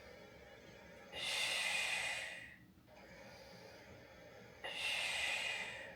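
Two strong breaths of a person exercising, each about a second long and some three seconds apart, in time with a repeated Pilates ab curl.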